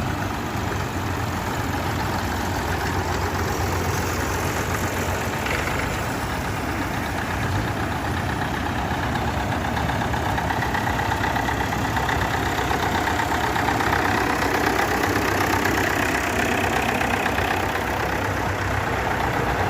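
John Deere 6310 tractor's diesel engine running steadily, heard from inside the tractor, a little louder about halfway through.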